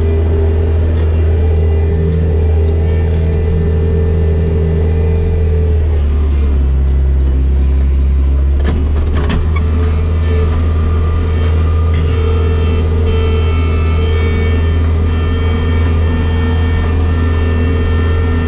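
Bobcat skid-steer loader's diesel engine running steadily while clearing snow with the bucket. Its note drops about six seconds in and comes back up near nine seconds, as the load changes.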